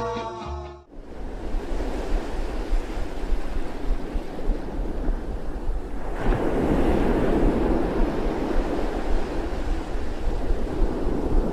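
Ocean surf washing in, a steady rush with wind rumbling on the microphone; the surf swells louder about halfway through. Music cuts off just under a second in.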